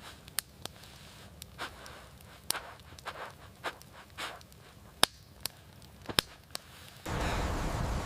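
Wood fire crackling: scattered sharp, irregular snaps over a quiet background. About seven seconds in, loud wind noise cuts in suddenly.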